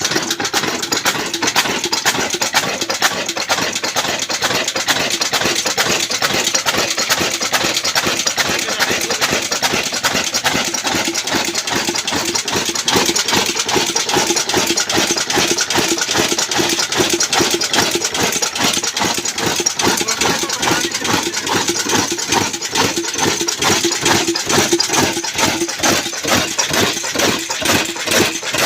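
Old Ruston Hornsby diesel oil engine running with a rapid, regular firing beat. Near the end the beats become slower and more distinct.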